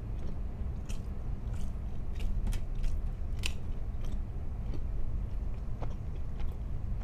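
A person chewing and biting food close to the microphone, with irregular crisp crunches over a low steady hum.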